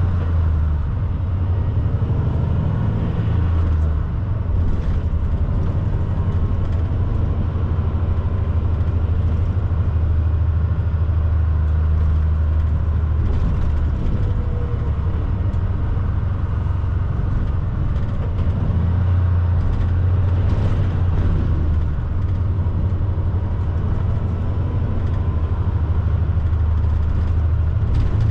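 Semi truck's diesel engine running with a steady low drone as the truck drives along.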